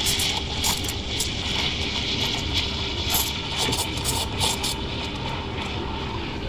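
Espresso machine steam wand hissing steadily while frothing milk for a cappuccino, with a scatter of light clinks of cups and jug.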